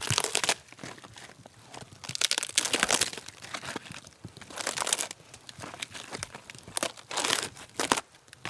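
Crunching and crackling of dry material being handled or stepped on, in about five short bursts. The loudest bursts come at the very start and around two to three seconds in.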